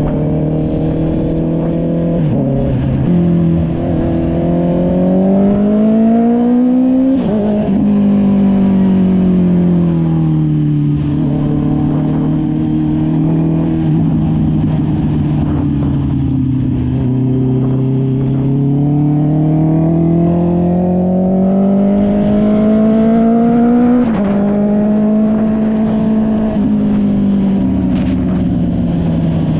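Honda CB650R's inline-four engine through an SC-Project aftermarket exhaust, ridden: the engine note climbs under throttle, drops sharply at gear changes about seven seconds in and again near twenty-four seconds, and sinks slowly in between as the bike slows.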